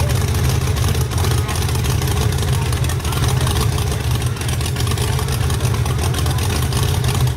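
A car engine running steadily, with a deep, even low rumble.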